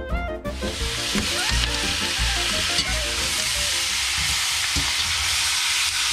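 Onions frying in hot oil in a plov kazan: a steady, loud sizzle that takes over about half a second in as background music fades out.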